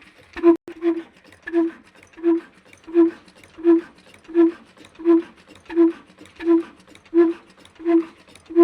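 Old black single-cylinder diesel engine running slowly, with evenly spaced exhaust beats about one and a half times a second, each a short pitched pop.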